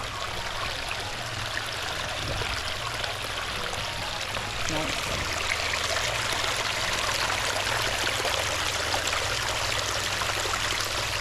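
A small brook running over its bed: a steady rush of flowing water that grows a little louder about four seconds in.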